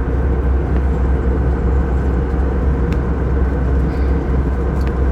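Steady, loud rumbling drone of a moving vehicle heard from inside, with an even hum riding over it and a couple of faint ticks.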